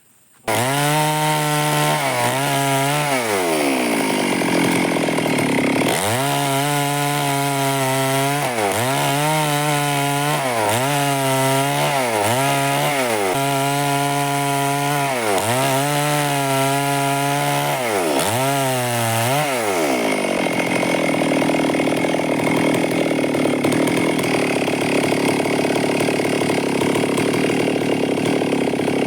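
Stihl two-stroke chainsaw running at high revs while cutting wood. Its pitch dips briefly about every second or two for the first twenty seconds, then it settles into a steadier, noisier cut.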